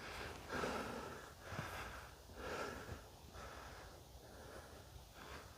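Faint breaths and soft body movement of a disc golfer stepping up and throwing off the tee, heard as three or four soft swells in the first three seconds, then near quiet.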